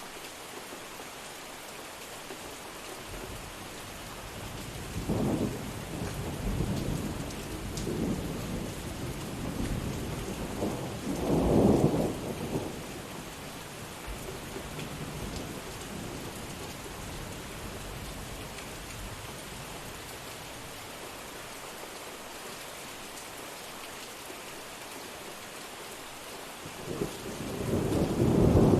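Steady rain falling, with rolls of thunder: a rumble that swells and fades from about four seconds in, peaking near twelve seconds, and a louder one building near the end.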